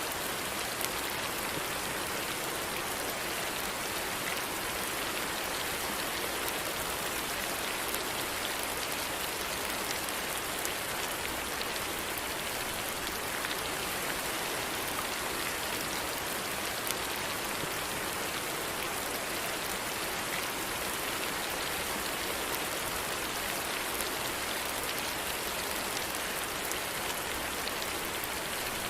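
Steady rain falling, an even hiss with scattered small drop ticks and no change in strength.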